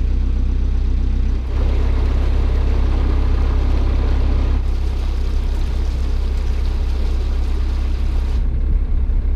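Narrowboat's inboard diesel engine running steadily under way, with a louder rush of noise joining about a second and a half in and easing near the end.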